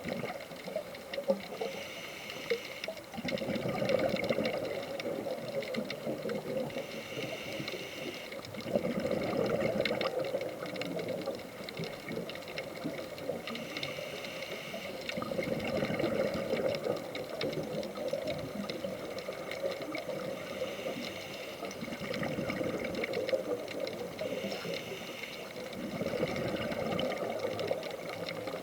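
Scuba diver breathing through a regulator underwater: a hissing inhale followed by a louder rush of exhaled bubbles, repeating about every six seconds, five breaths in all.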